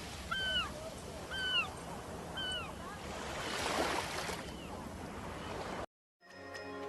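A bird calls three times about a second apart, each a short arched note, over a steady rushing hiss that swells louder midway. After a brief drop-out, music begins near the end.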